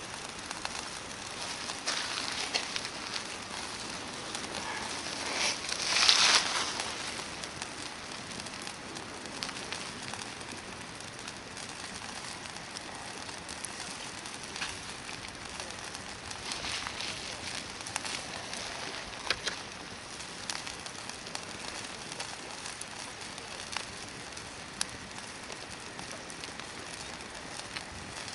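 Hardwood campfire burning: a steady hiss with scattered crackles and pops, and a louder rustling crunch about six seconds in.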